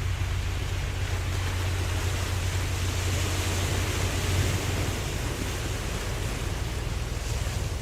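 Ocean waves washing, a steady hiss of surf that swells about three seconds in, over a constant low hum.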